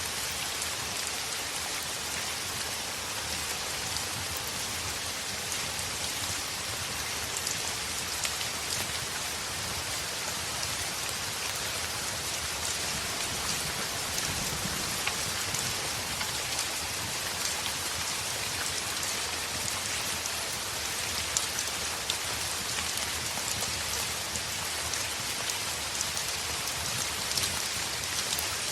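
Heavy rain on a window: a steady, even hiss of rain with scattered sharp taps of drops.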